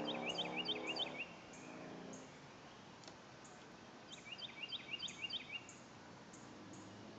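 A songbird singing two short phrases of five or six quick, high, rising notes, one at the start and one about four seconds in. A low hum fades out over the first two seconds.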